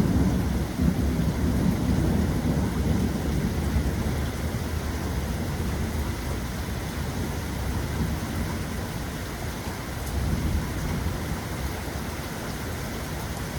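Thunder rumbling low and fading away gradually, over steady rain.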